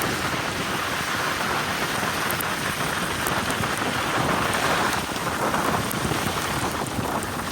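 Heavy rain falling: a steady, dense patter of drops.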